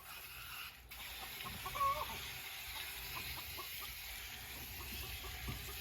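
Chickens clucking with scattered short calls, one louder call about two seconds in, over a steady hiss.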